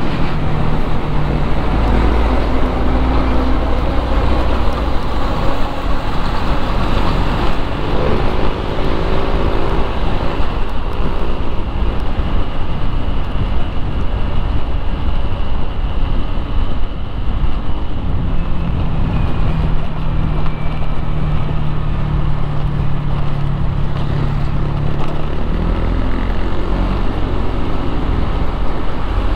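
Loud, continuous road traffic: motor vehicle engines running and passing, with tyre and road noise. One engine's steady hum stands out for several seconds past the middle, and heavy low engine rumble comes near the start and end.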